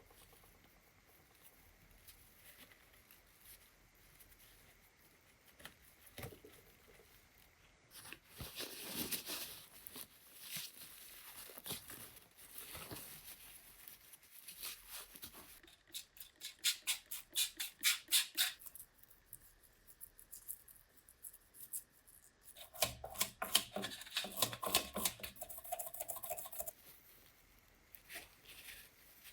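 Hand work on bicycle parts: a stretch of scrubbing noise, then two bursts of rapid, evenly spaced clicking a few seconds apart.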